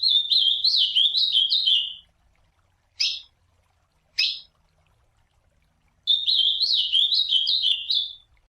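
Ultramarine grosbeak (azulão) singing: two fast warbled phrases of about two seconds each, one at the start and one about six seconds in, with two short single call notes between them.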